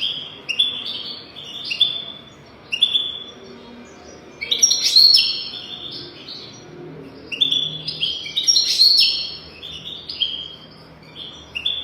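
European goldfinch singing: phrases of quick, chirping notes, each phrase lasting one to two seconds, with short pauses between them.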